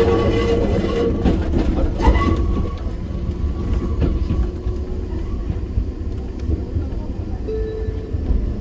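Enoshima Electric Railway 300 series electric train running along the line, heard from inside the car: a steady rumble of wheels on rail with a few sharp clicks. Brief ringing tones come at the start and again about two seconds in.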